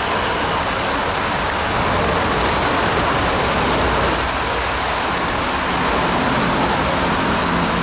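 An MTR C-Train electric multiple unit running through the station without stopping: steady wheel-on-rail and traction noise as the train pulls away. A faint low hum comes in near the end.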